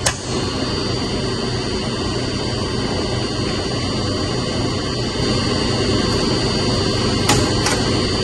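Steady drone of a running chilled-water pump motor, with a constant hum and a thin high whine. It gets a little louder about five seconds in, and two sharp clicks come near the end.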